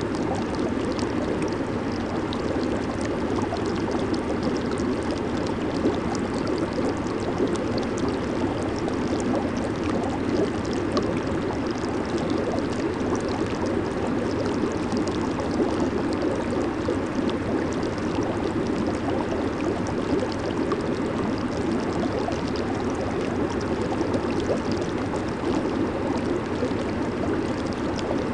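Hot tub jets running, water churning and bubbling steadily.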